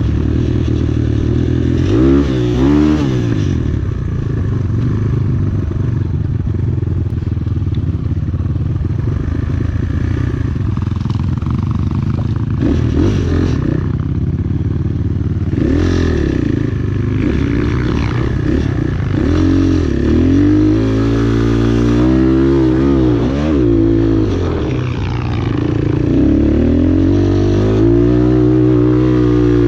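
Enduro motorcycle engine running, its revs rising and falling again and again, with longer runs of revving in the second half.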